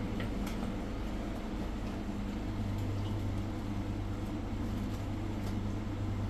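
A vehicle engine running steadily with a constant low hum, and a few faint clicks.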